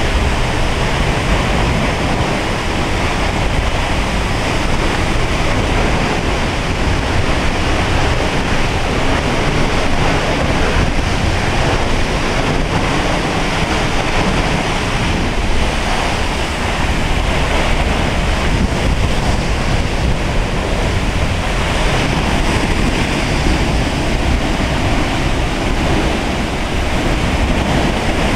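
Waterfall in rainy-season flow: a loud, steady rush of falling water that holds unchanged throughout.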